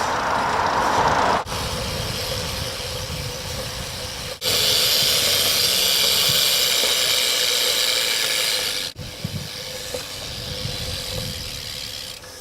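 Steady hiss of wind on the microphone and bicycle tyres rolling on pavement while riding a BMX bike, in several short clips cut together. The hiss is loudest and brightest in the middle stretch, with a fluttering low rumble underneath.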